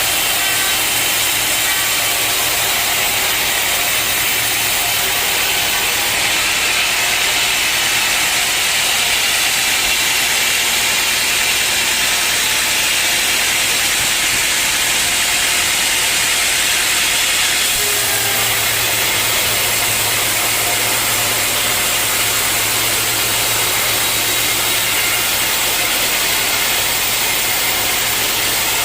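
Sawmill saw running steadily while cutting wood: a constant, loud hissing noise over a motor hum, with the low hum growing stronger about two-thirds of the way through.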